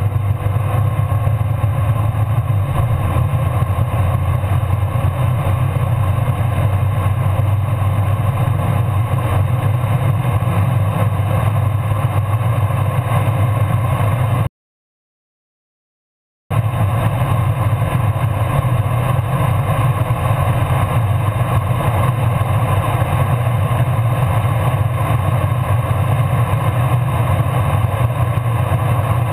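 Tuned 730 hp Audi RS6 running hard and steadily during a high-speed acceleration run, a dense low engine drone mixed with road noise. The sound cuts out completely for about two seconds midway, then the same steady drone resumes.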